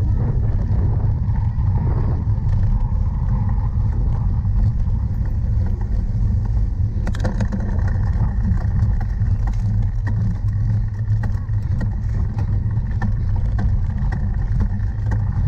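Wind rumbling on the microphone of a camera carried on a cyclocross bike while it is ridden, with the bike's short rattles and clicks over rough ground from about halfway through.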